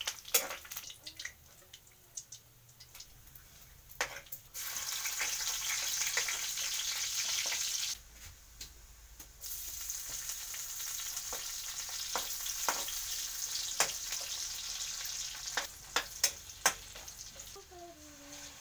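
Meat bits and onion sizzling in hot oil in an aluminium wok, with a metal spatula scraping and clacking against the pan as it stirs. The sizzle swells suddenly about four seconds in, drops away briefly about halfway through, then comes back.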